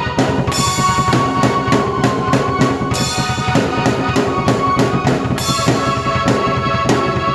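Drum kit and keyboard played together in a loud, driving instrumental piece: a steady beat of bass drum, snare and cymbal strokes under long held keyboard notes.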